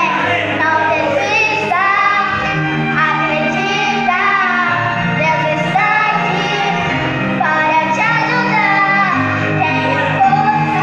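A child sings a song, the melody gliding between held notes, over an instrumental backing track with sustained bass notes.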